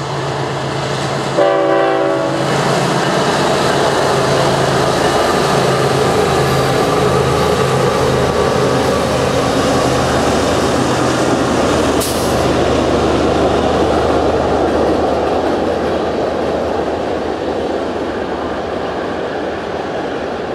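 CSX freight train passing close by: a short single blast of the locomotive horn about a second and a half in, then the drone of the two lead diesel locomotives going by, giving way to the steady rumble and clatter of freight-car wheels on the rails, with one sharp clank about halfway through.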